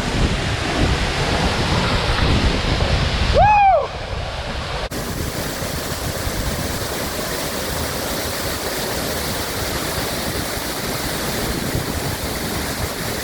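Chania Falls pouring down, a steady rushing roar of falling water heard from right behind the waterfall. About three and a half seconds in comes one short rising-and-falling call, and about five seconds in the sound changes abruptly, as at an edit.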